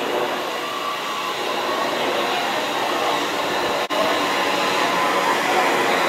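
A London Northwestern Railway Class 350 electric multiple unit approaching along the platform, a steady running noise of wheels on rail with a faint motor whine that grows louder as it nears. The sound cuts out for a split second about four seconds in.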